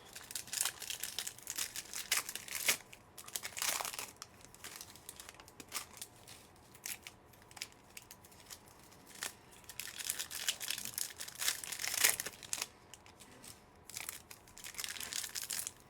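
Trading-card pack wrappers being torn open and crinkled by hand, in irregular crackling bursts, loudest in a few spells.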